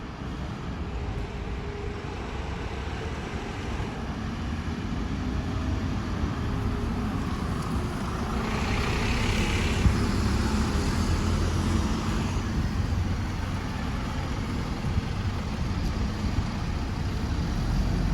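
City buses' diesel engines running in road traffic, a steady low rumble that swells louder about halfway through. A hiss lasts a couple of seconds near the middle.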